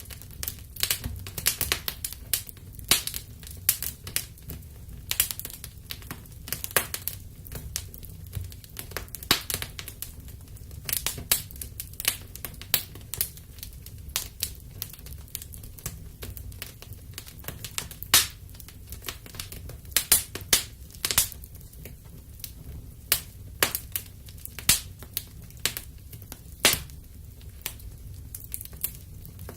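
Wood fire burning in a fireplace, crackling: irregular sharp snaps and pops, some much louder than others, over a low steady rumble.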